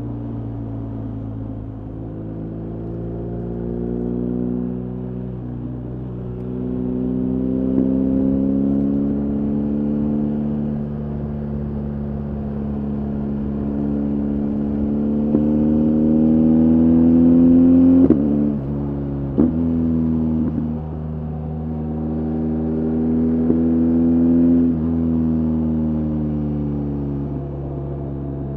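BMW R 1250 GS Adventure's boxer twin engine pulling under way, its pitch climbing steadily as the bike accelerates. It drops sharply at two quick upshifts about two-thirds through, then climbs again, with another shift near the end.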